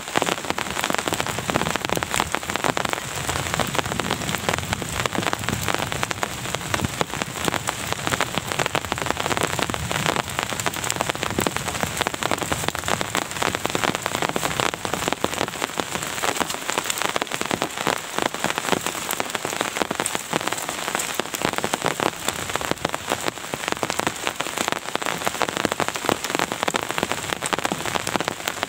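Steady rain falling: an even hiss with a dense, unbroken patter of drops.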